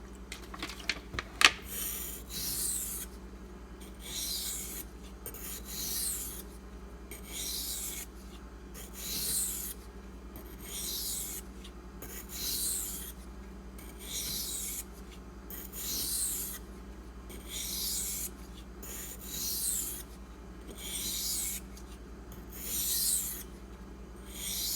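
Maxamet-steel knife edge being stroked across a coarse 150-grit Kyoto oil stone that has been worked into a slurry. It makes a gritty scraping stroke about once a second, after a few light clicks at the start. The slurry is meant to grind down the burr on a chipped, failed apex.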